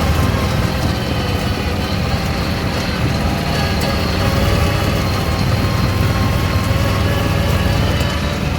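Off-road vehicle engine running steadily, a constant low rumble with a faint steady whine above it.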